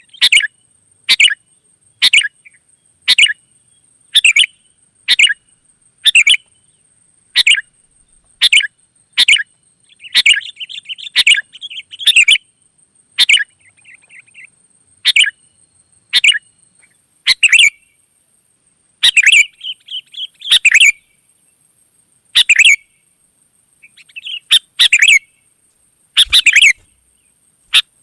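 Sooty-headed bulbul calling: short sharp chirps repeated about once a second, broken by a few longer chattering phrases.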